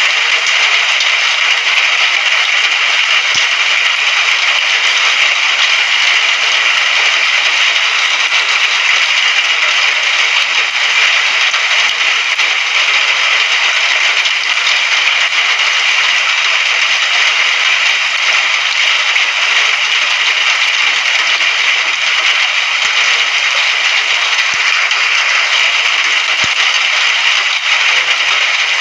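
Steady, even hiss of heavy rain, with a light crackle of drops hitting a surface.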